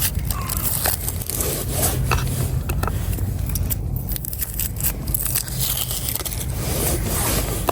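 Dry papery skin being peeled off a halved shallot, with scratchy scraping and small clicks. A low steady rumble runs underneath.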